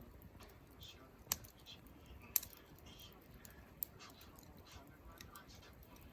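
Firewood crackling as it burns, with irregular small ticks and a few sharp pops, the loudest about two and a half seconds in.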